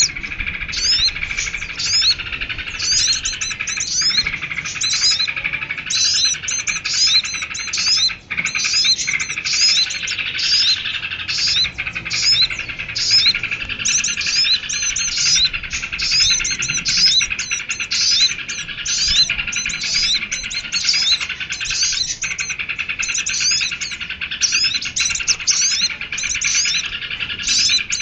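Bird-lure recording of small songbirds chirping: a rapid, continuous stream of high chirps, several a second, over a steady lower chatter.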